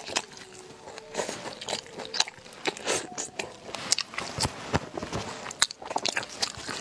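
Close-miked eating sounds of spicy snails being bitten and chewed: many short crisp crunches and crackles with wet chewing between them, coming irregularly and close together.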